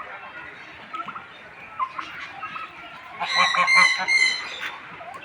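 A large bird gives a loud, harsh run of rapid honks about three seconds in, lasting over a second, over faint background chirping of smaller birds.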